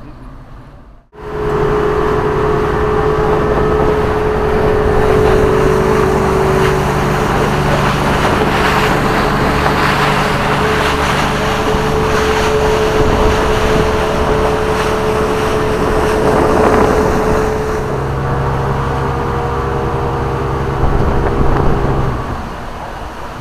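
Motorboat engine running steadily at speed with a constant hum. It cuts in abruptly about a second in and drops away near the end.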